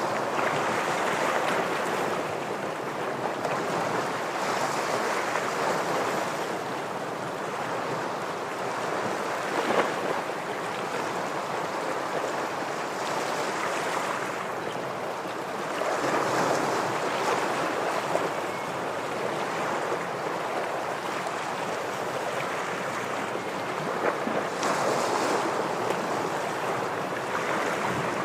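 Ocean waves washing and breaking against shoreline rocks: a continuous surf wash that swells with each wave every several seconds.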